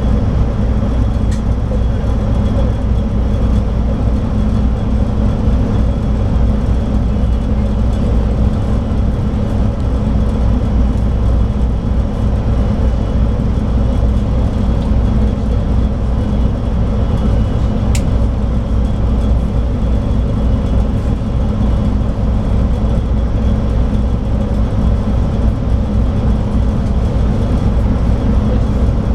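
Scania K340IB coach's DSC9 diesel engine running steadily under way, with a constant low hum and road noise and no clear change in revs. Two faint clicks, one about a second in and one about 18 seconds in.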